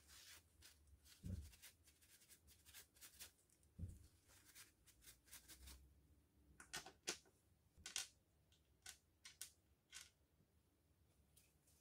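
Faint handling noises of small parts being worked on a bench: scattered light clicks and rustles, two soft thumps in the first four seconds, and a few sharper clicks about two-thirds of the way through.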